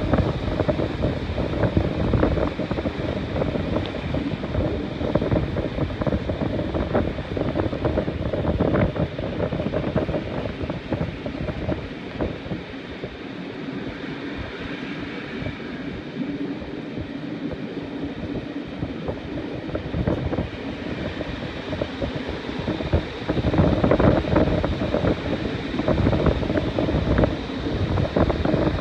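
Wind buffeting a microphone held out of a moving train's carriage window, over the rumble and clatter of the carriage wheels on the track. It eases off for several seconds in the middle and comes back stronger near the end.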